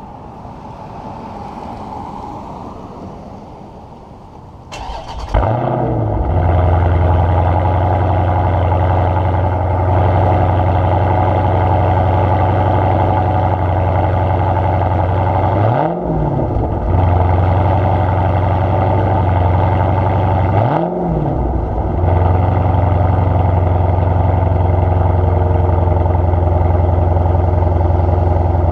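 Dodge Challenger 392 Hemi V8 starting about five seconds in through an exhaust with the mid mufflers deleted and the resonators kept, flaring briefly and then settling to a steady deep idle. Two short throttle blips rise and fall, about halfway through and again some five seconds later.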